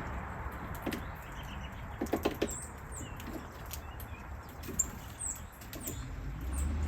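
Small birds chirping, with many short, high falling chirps. A few knocks come about two seconds in, over a low steady rumble.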